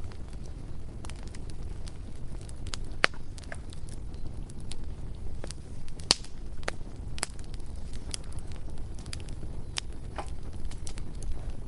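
Bonfire burning: a steady low rumble of flames with irregular wood crackles and a few sharper pops, the loudest about six seconds in.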